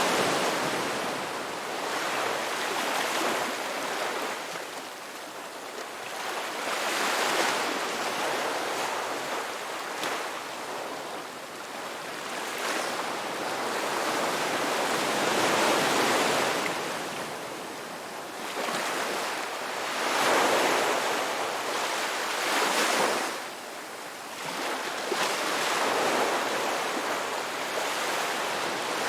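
Ocean waves breaking on a beach: a continuous wash of surf that swells and falls back every few seconds.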